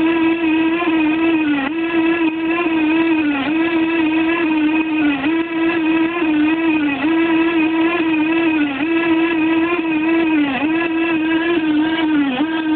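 Industrial machine (the No. 3 reduction unit) running with a loud, steady whine and overtones. The pitch sags briefly about every 1.7 seconds. This is the abnormal noise that sets it apart from a normally running unit.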